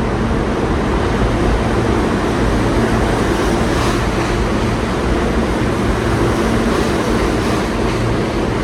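R160 subway car running at speed, heard from inside: a steady, loud rumble of the wheels on the rails with a constant low hum.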